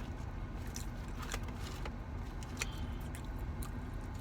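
A person chewing food close to the microphone: irregular crisp crunches and mouth clicks over a steady low rumble.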